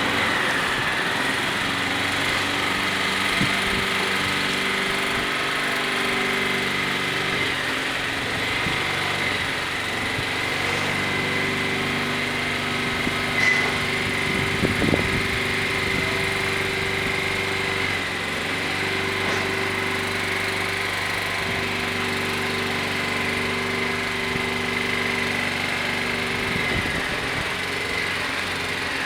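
A diesel engine running slowly and steadily, its pitch stepping up and down every few seconds, with a steady high whine over it and a single knock about halfway through.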